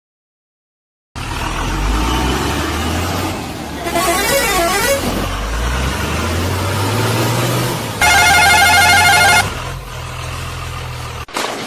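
Vehicle engine running with a slowly rising pitch, a short warbling tone about four seconds in, then a loud, steady horn honk lasting about a second and a half.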